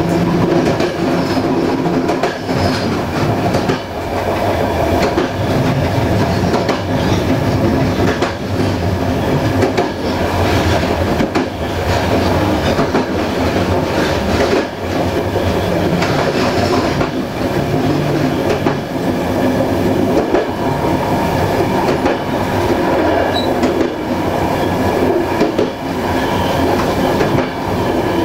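A passenger train coach running along the track, heard from on board: a steady rumble of wheels on rails, with scattered knocks as the wheels cross rail joints.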